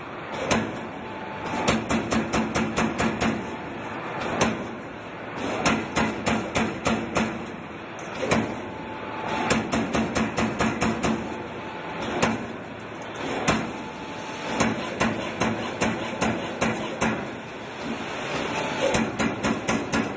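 CNC turret punch press punching sheet metal: runs of rapid sharp strikes, several a second, broken by short pauses.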